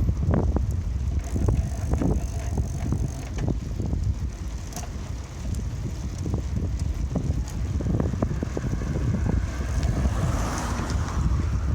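Wind rumbling on the microphone of a bicycle being ridden, with frequent sharp rattles and clicks from the bike over the ground. A broader hiss swells and fades about ten seconds in.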